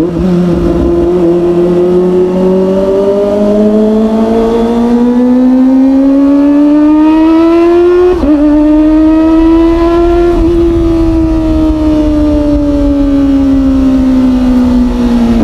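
Kawasaki Ninja ZX25R's inline-four engine through an aftermarket Orion exhaust, under way: the pitch drops at the start, climbs steadily for about eight seconds as it pulls in gear, breaks briefly, rises a little more, then falls slowly over the last five seconds as the throttle eases. Wind rumbles on the microphone underneath.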